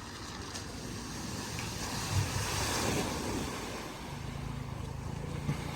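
A car driving through a flooded ford: its engine running under a steady wash of water, the splashing swelling about two to three seconds in, with a low steady engine hum from about four seconds in.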